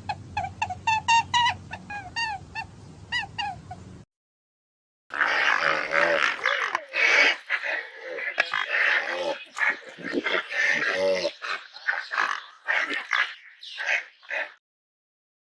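Animal calls in two separate clips. First a quick series of short, high, yelping calls over a low hum, then after a second's silence a longer, denser run of cries and yelps.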